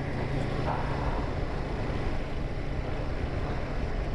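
Royal Enfield Himalayan 450's single-cylinder engine running steadily while the motorcycle is ridden along, under a steady rush of wind and road noise.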